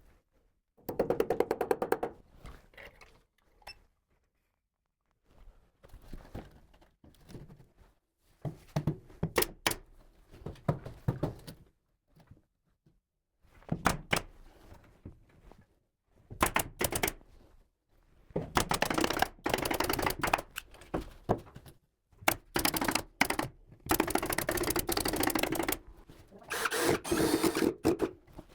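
Bursts of knocking and clattering from carpentry work on a ceiling, separated by short pauses. The longest and densest runs of rapid clicks come in the second half.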